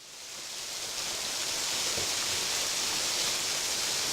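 Waterfall splashing steadily, with only a thin flow of water in a dry spell. The sound fades in over about the first second.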